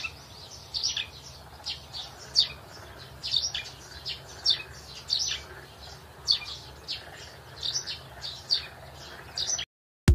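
A bird chirping over and over, short sharp falling notes about once a second, over a faint steady low hum; it cuts off just before the end.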